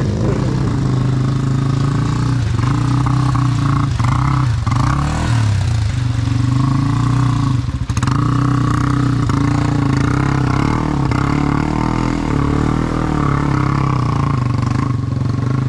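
Off-road motorcycle engine running under steady throttle, with small rises and falls in revs and a brief drop about eight seconds in, while the bike is worked free on the mountain trail. A few knocks and clatters come through over the engine.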